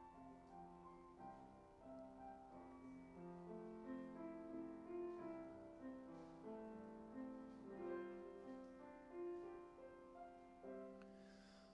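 Piano playing a soft instrumental interlude of slow, held chords and single notes between verses of a hymn accompaniment.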